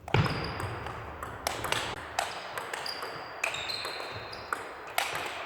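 A table tennis rally: the ball is struck back and forth by bats and bounces on the table, a string of sharp clicks and pops, the loudest right at the start, with a few short high squeaks between them.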